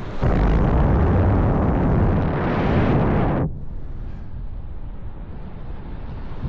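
Gusty wind buffeting the microphone. A strong gust rises just after the start and cuts off abruptly about three and a half seconds in, leaving a lighter, steady rush of wind.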